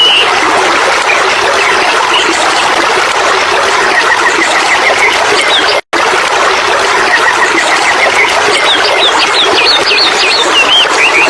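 Steady rushing water, like a stream, with birds chirping over it: quick rising and falling notes near the start and end, and a fast trill of short notes a few seconds in and again past the middle. The sound cuts out completely for an instant about halfway through.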